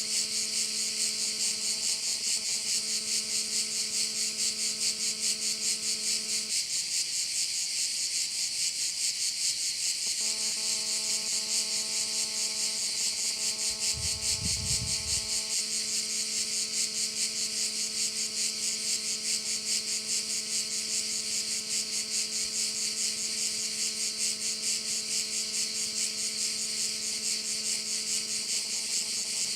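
Dense chorus of crickets chirping continuously, high-pitched and pulsing evenly at about two to three beats a second. Under it runs a faint steady low hum, which drops out for a few seconds about six seconds in, and a brief low rumble comes about halfway through.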